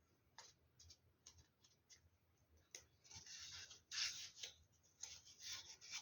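Faint handling noises of craft pieces being held and pressed together: a few light clicks, then soft scratchy rustling from about three seconds in.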